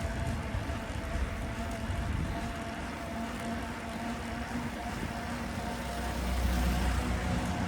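City road traffic heard from a moving bicycle: a steady mix of engine noise and tyre hiss, with a low vehicle rumble that grows louder about six seconds in.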